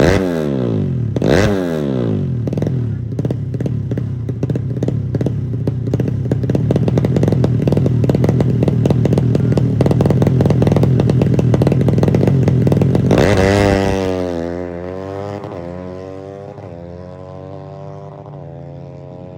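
Honda Supra four-stroke engine bored up to 150cc in a Yamaha Jupiter drag bike, being revved. Two quick blips fall back, then it is held at high revs with a rough, stuttering note for about twelve seconds: the strange sound at top power that the owner is chasing. About thirteen seconds in the revs drop suddenly and waver down toward idle with small blips.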